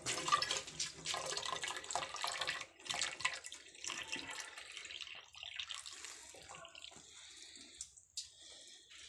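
Water pouring and splashing, strongest for the first three seconds, then trickling off more faintly.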